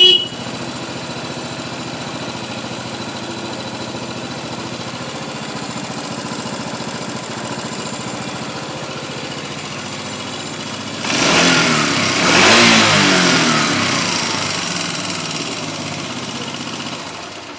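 Yamaha SR400's air-cooled single-cylinder four-stroke engine idling steadily. About eleven seconds in it is revved once, then the revs sink slowly back down, and the sound falls away at the very end.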